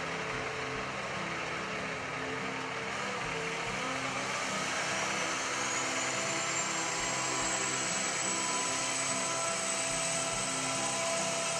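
Cummins ISX diesel engine in an International 9200 truck running. About halfway through it speeds up: a whine rises in pitch and then holds at a steady high pitch.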